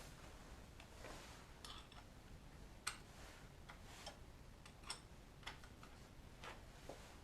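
Near silence with a few faint, irregular light clicks and taps.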